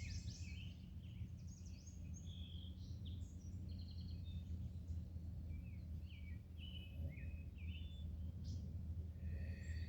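Several songbirds singing and chirping over a steady low outdoor rumble, with short high chirps and quick trills throughout.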